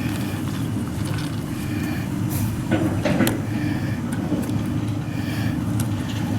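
Steady low mechanical rumble, like machinery running, with scattered sharp clicks and brief squeaky, ringing sounds, the loudest a little before and after the three-second mark.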